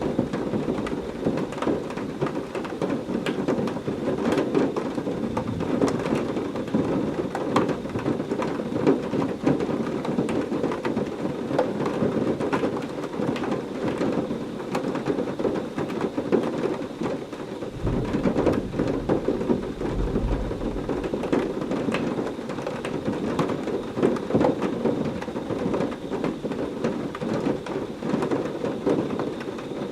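Heavy rain falling steadily, with dense patter from many drops, and a low rumble of thunder about two-thirds of the way through.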